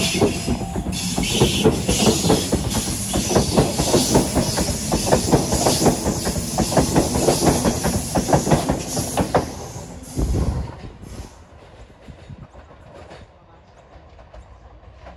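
Electric suburban passenger train passing close by, its wheels clattering rhythmically over the rail joints. The sound fades away as the last car goes by about ten seconds in, with a brief low thump just after.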